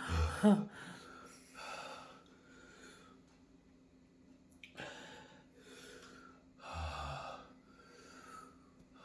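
A man breathing hard in separate audible breaths, in and out roughly once a second, opening with a short vocal sound. It is the heavy breathing of a mouth burning from bird's eye chilli heat.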